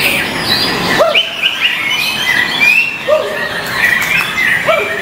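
Murai batu (white-rumped shamas) singing, a dense run of loud whistled notes and chirps that glide up and down, several songs overlapping at once.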